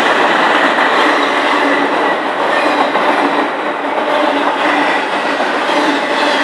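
Train cars rolling steadily across a creek trestle: a continuous loud rumble and rattle of wheels on rails, with no break.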